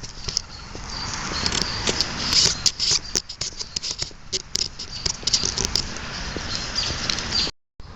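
Footsteps crunching and rustling along a trail, an irregular run of crackles and clicks. The sound cuts out completely for a moment near the end.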